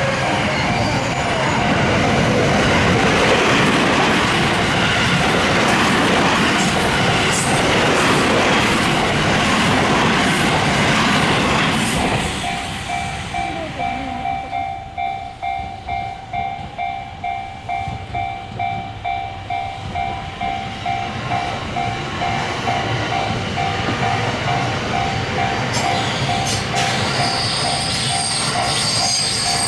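A train passes over a railroad crossing with a loud rumble and wheel noise for about twelve seconds. Then the crossing's electronic warning bell stands out, ringing its repeating tone about twice a second, and train noise builds again near the end.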